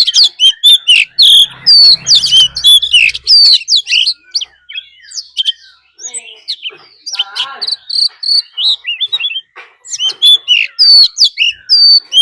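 Oriental magpie-robin singing a loud, fast, varied run of whistles and chirps: the combative song of a male, used as a lure to provoke rival birds.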